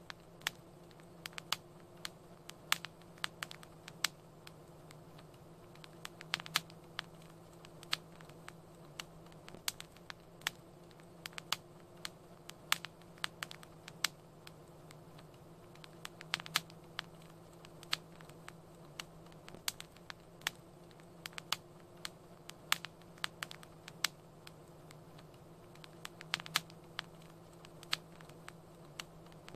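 Fireplace fire crackling: irregular sharp pops and snaps, several a second, over a steady low hum.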